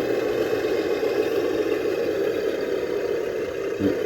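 Traxxas TRX-6 Ultimate Hauler RC crawler's electric motor and geared drivetrain running steadily as it drives over the course.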